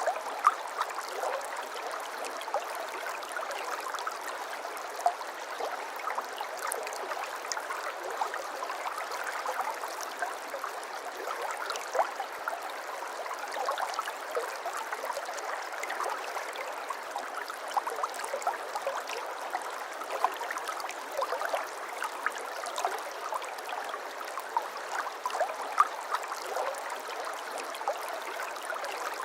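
Water trickling and babbling over stones in a small stream: a steady gurgling flow with many small splashes.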